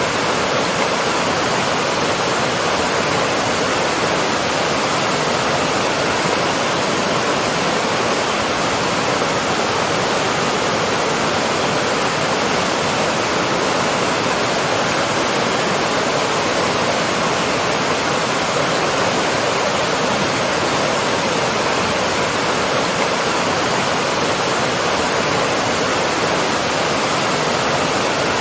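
Waterfall: water falling and splashing in a steady, loud, unbroken rush with no changes.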